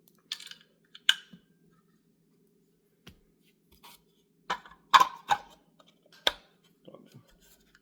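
Irregular sharp clicks and knocks of small hard distributor parts being handled and fitted together, with a quick cluster of the loudest taps about five seconds in.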